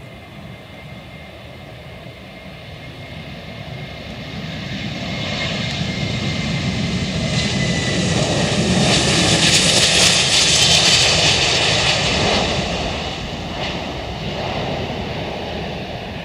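Jet airliner taking off, its engine noise swelling to a peak about ten seconds in and then fading as it climbs away.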